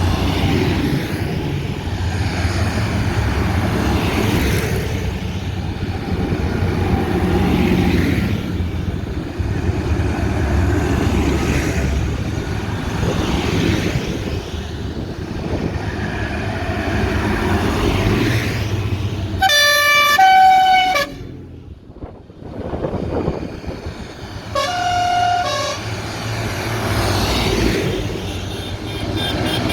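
Tractor engines running steadily, then a horn blasts twice, about twenty seconds in and again a few seconds later, each blast stepping between two notes.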